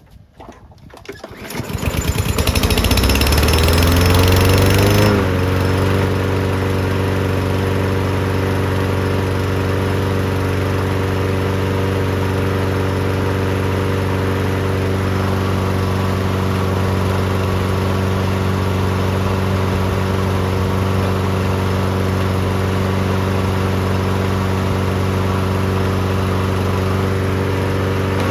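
A Toro lawn mower's Briggs & Stratton engine is cranked for about a second and a half, catches and runs up in pitch. At about five seconds it drops a little to a steady, even run. The engine now starts and runs with its fuel cleared of water and its sticking choke flap freed.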